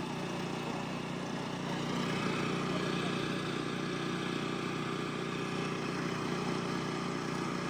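An engine running steadily, slightly louder about two seconds in.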